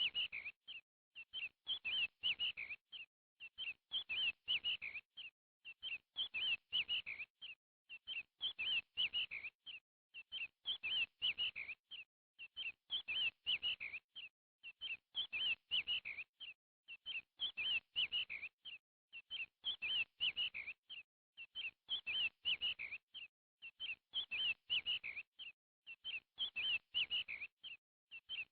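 Small bird chirping in quick high-pitched phrases. Near-identical bursts repeat evenly about every two seconds, with dead silence between them, as from a looped recording.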